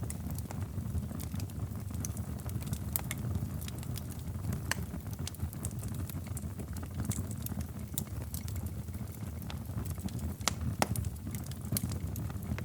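Wood fire in a fireplace crackling, with irregular sharp pops and snaps over a steady low rumble of burning flames.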